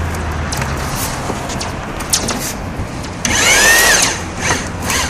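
Roll-forming machine running sheet-metal strip through its roll stations: a steady low hum with scattered clicks, then about three seconds in a loud metal screech that bends up and down in pitch for under a second. It goes with the strip buckling in the rolls, the fault the crew is chasing.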